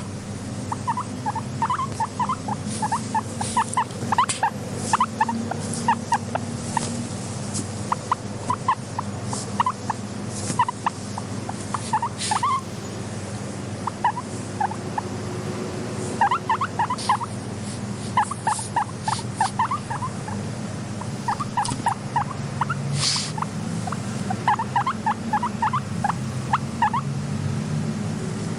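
Guinea pig making short squeaky chirps in quick runs of several, with pauses between runs and a few sharp clicks, over a steady low hum.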